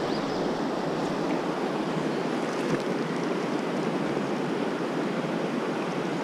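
Steady rush of a mountain river's flowing water, an even noise with no distinct events.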